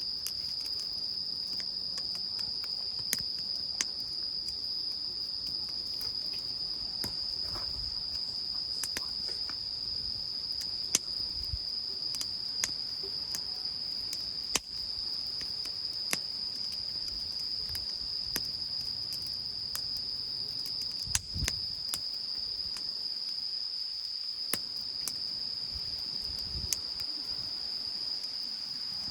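Insects, crickets by their sound, giving a continuous high, steady trill. Scattered sharp clicks and a few soft low thumps occur now and then.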